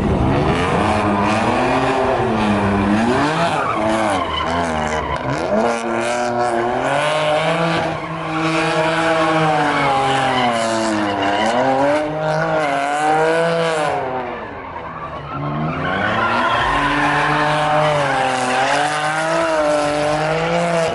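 A car engine revving up and down again and again, with tyres squealing, as a car spins donuts. The revs ease off briefly about fourteen seconds in, then pick up again.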